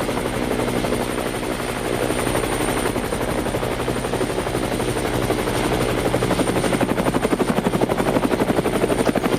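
A small motor whirring steadily with a fast, even flutter, getting a little louder about two-thirds of the way through.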